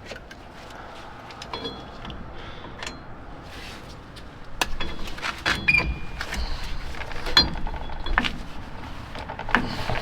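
Metal hand tools and brake parts clinking and knocking during work on a truck's rear brake: scattered clicks and short metallic rings, busier and louder from about halfway through.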